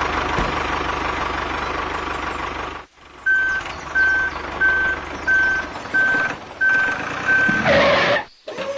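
Vehicle engine running steadily; after a sudden cut, a reversing alarm beeps seven times at an even pace, about one and a half beeps a second, over the engine.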